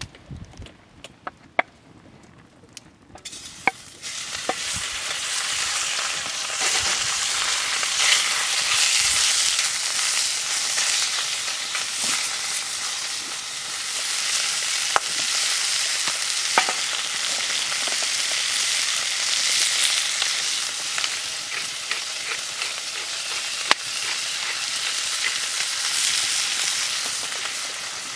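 Food stir-frying in a hot pan: a loud, steady sizzle that starts suddenly about three and a half seconds in, with scattered light clicks of stirring, after a quiet start with a few small knocks.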